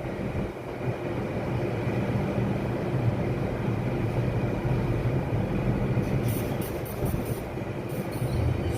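New York City subway train running through the station with a steady low rumble. From about six seconds in come a series of short, sharp, high clicks and rattles.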